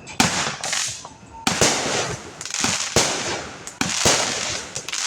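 Consumer fireworks exploding close by: a run of sharp bangs, roughly one a second, each trailing off in a crackling hiss.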